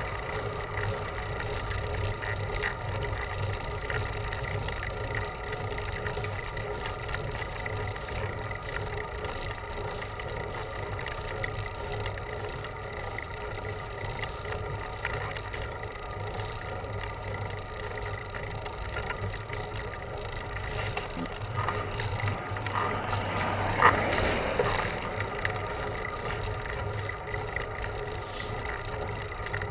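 Steady riding noise from a bicycle on the road, wind and tyre noise with a low hum, and a brief louder swell about three-quarters of the way through.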